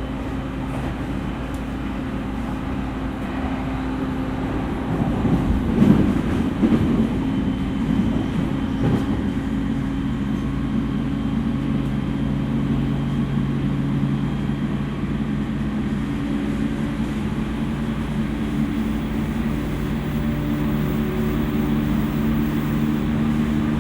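E231 series electric train running, heard from inside the carriage: a steady rumble of wheels on rail with a low motor hum, and a short run of clacks and knocks about five to nine seconds in as the wheels cross rail joints or points. The hum changes pitch about two-thirds of the way through.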